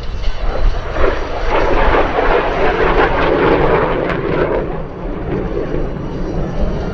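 MiG-17 Fresco jet fighter passing in a low flyby: its turbojet roar swells about a second in, peaks, then fades.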